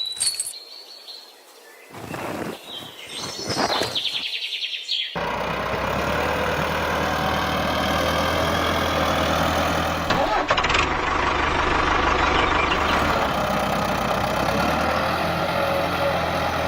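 Birds chirping faintly for about five seconds, then an engine starts abruptly and keeps running steadily with a low hum.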